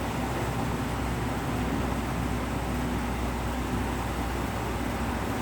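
A vehicle engine, most likely the truck's, running steadily under a constant hiss of outdoor noise.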